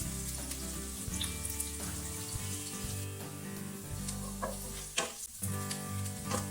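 Food sizzling as it fries in hot oil in a pan and is stirred, with a few sharp clicks from the utensil against the pan.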